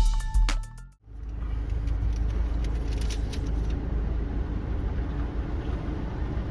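Intro music with a percussive, chiming melody stops about a second in. Then comes the steady low rumble of a Mazda Miata running.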